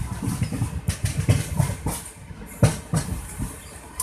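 Train running on the rails: a low rumble with irregular sharp knocks as the wheels clatter over rail joints, the loudest knock about two and a half seconds in.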